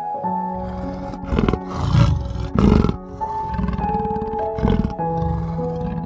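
About four rough animal roars, the loudest two about two and three seconds in, over soft piano music with held notes.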